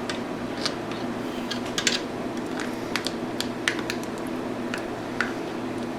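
Scattered light clicks and taps as grease is packed onto the metal gears of a KitchenAid stand mixer's opened gearbox, over a steady low hum.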